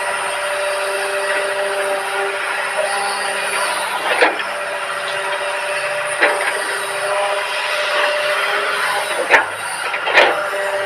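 Excavator running with a steady hydraulic whine, broken by sharp metallic knocks every couple of seconds.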